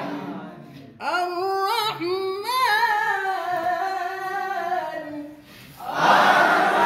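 A single voice chants a long ornamented phrase in Quranic recitation style, its pitch winding through melismatic turns in a maqam. Near the end a group of voices comes in together.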